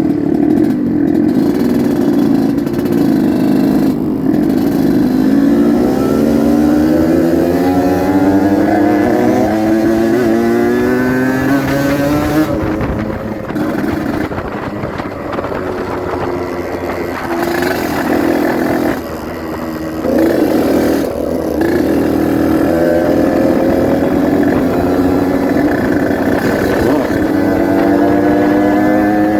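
Yamaha RX-King 135cc single-cylinder two-stroke motorcycle engine under way, its pitch climbing as it accelerates, then easing off briefly twice before pulling up again.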